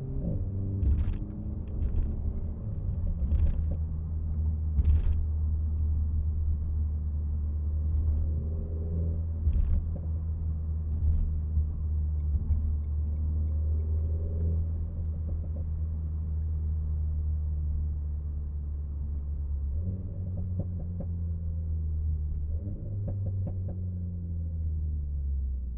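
Renault Mégane RS Trophy's turbocharged four-cylinder engine running at low revs in traffic, a steady low drone. A few sharp clicks come in the first ten seconds, and the engine note changes pitch twice near the end.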